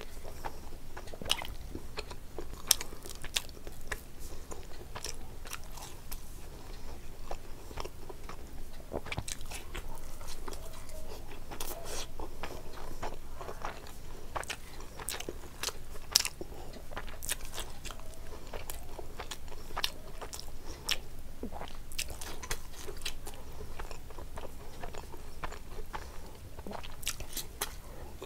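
Close-miked chewing and wet mouth smacks of a person eating soft, syrupy mango rasmalai by hand, with many sharp clicks scattered throughout.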